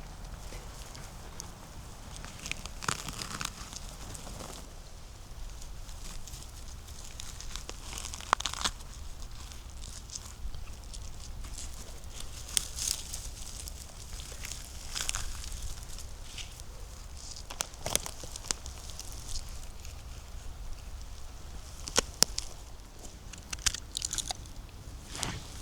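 Dry leaves and twigs on the forest floor crunching and crackling underfoot in irregular, uneven bursts, with scattered sharp snaps.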